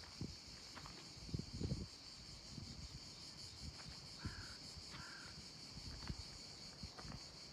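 A crow caws twice in quick succession about four seconds in, over steady footsteps and a continuous high insect buzz.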